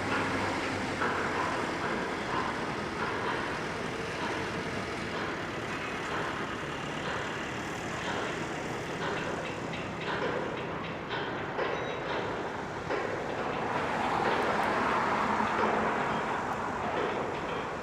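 Steady road traffic noise, vehicles running past.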